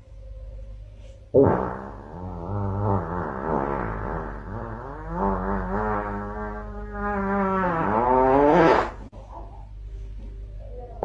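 A dog howling: one long, wavering call lasting about seven seconds, starting about a second and a half in and getting louder toward its end.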